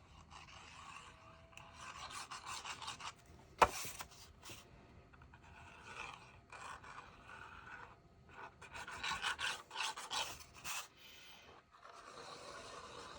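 Paper and card being rubbed and scraped in bursts as they are pressed and handled, with one sharp click about three and a half seconds in.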